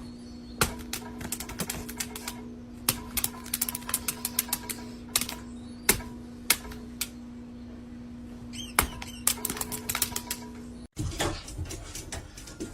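Rapid, irregular clicks and taps over a steady hum, with a sudden cut about eleven seconds in.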